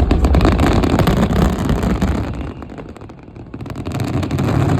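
Fireworks finale crackling: a dense crackle of many small bursts over a low rumble, dying away about three seconds in, then a steadier din rising again near the end.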